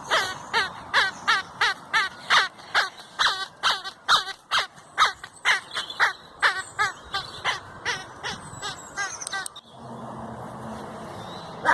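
A rapid run of short, loud animal calls, each dropping in pitch, about two or three a second, stopping suddenly about nine and a half seconds in. A steady hiss follows.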